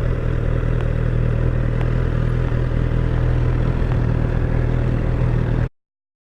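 2016 Honda CBR1000RR SP's inline-four engine running at steady revs through its stock exhaust, then the sound cuts off abruptly near the end.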